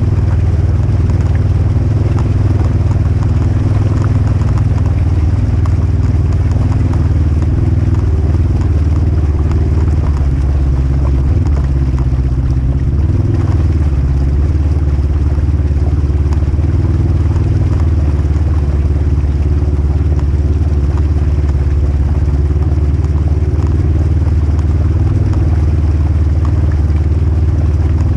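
Polaris RZR Highlifter 1000 side-by-side's engine running steadily under way, with scattered light clatter.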